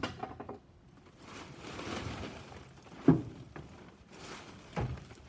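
Scrap being shifted and dragged about in a truck bed: a scraping rustle, then two clunks about a second and a half apart.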